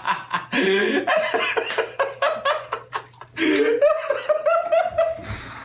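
Hearty laughter in quick repeated bursts.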